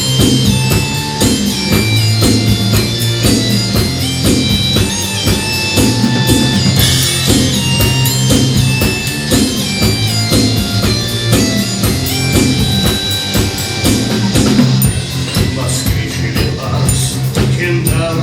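Live rock band playing an instrumental break: a steady drum-kit beat, a repeating bass-guitar line and electric guitar, with short high melodic notes on top.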